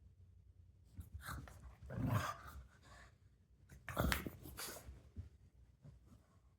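Pug making its noisy, breathy play sounds in a few short bursts, the loudest about two seconds in and again about four seconds in.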